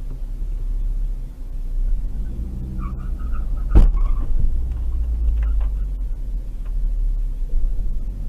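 Steady low road rumble of a car driving, picked up by an in-car camera, with one sharp bang about four seconds in.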